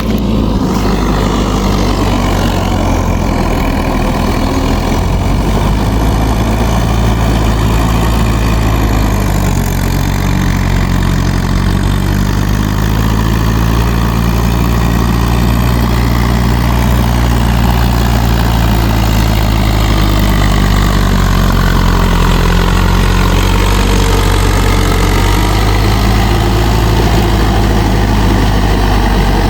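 Mahindra 585 DI tractor's diesel engine running steadily, its pitch drifting slightly up and down.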